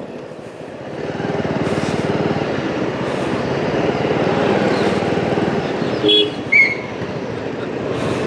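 Motorcycle engine running under way with wind noise on the rider's camera, getting louder about a second in as the bike picks up speed. A short higher-pitched tone sounds near six seconds in.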